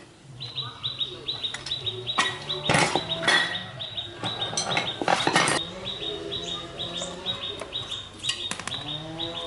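A small bird chirping rapidly, a quick string of short, high, evenly repeated chirps, with a few sharp metallic clanks in the middle.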